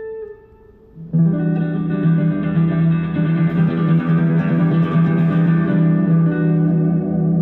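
Live band guitar at a song's close: a held note fades into a brief lull, then about a second in a strummed guitar chord comes in and rings on, sustained and steady.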